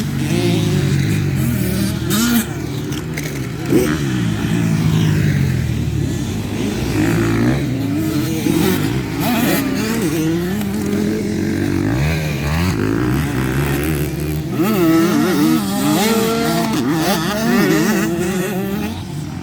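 Several motocross bikes racing around a track, their engines revving up and down and overlapping as riders accelerate and shift.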